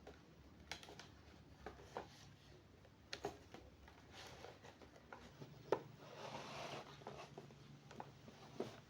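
Quiet household handling sounds: scattered light clicks and taps of kitchen items being picked up and set down, with a brief rustling noise about six seconds in.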